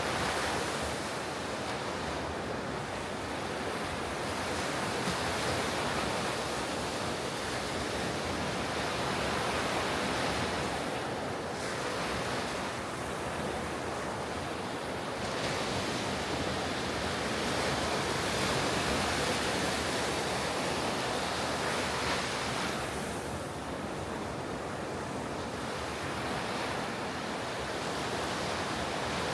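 Ocean surf breaking on a beach: a continuous wash of waves that swells and eases every several seconds, with some wind on the microphone.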